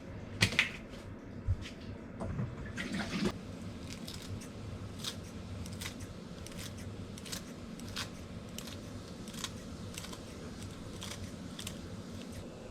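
Light handling sounds: a few sharp knocks, a short scrape, then soft clicks repeating about every half second.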